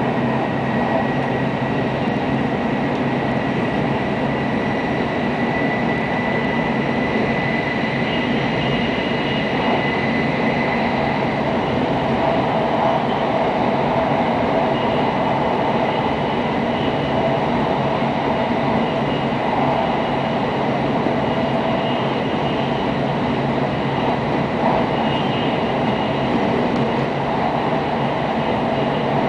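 JR Kyushu N700 series 8000 Shinkansen running at speed, heard inside the passenger cabin: a steady rumble of wheels and rushing air. A thin high tone fades out about ten seconds in.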